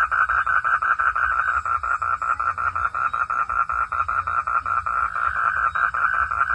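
Chorus of frogs calling steadily in rapid pulses, about nine a second, with no breaks.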